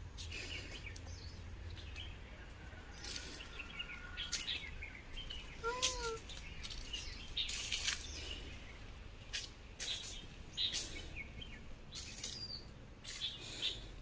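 Small birds chirping in short, high calls in the trees, with a single rising-and-falling call about six seconds in and several brief noisy bursts scattered through.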